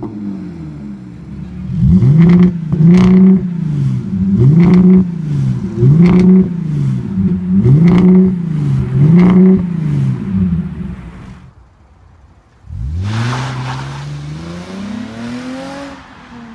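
A car engine and exhaust being revved in quick blips, about six in a row roughly a second and a half apart, each one rising and falling in pitch. After a brief pause comes one longer rev that climbs and then slowly falls away.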